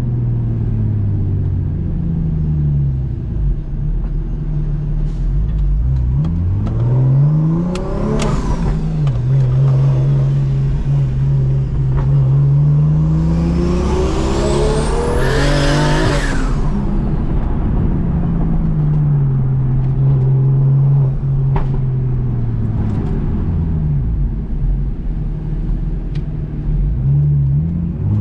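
BMW M2 Competition's straight-six, converted to a single turbo, revving up and down several times while being driven, the hardest pull about halfway through bringing a rising turbo whistle and hiss.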